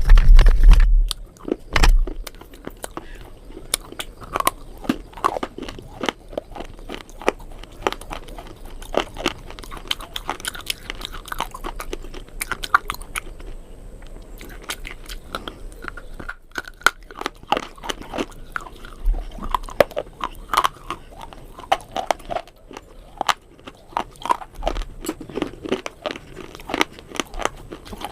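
Close-miked crunchy eating: a person biting into and chewing crisp food, with many short irregular crunches throughout. A few loud low thumps come in the first two seconds.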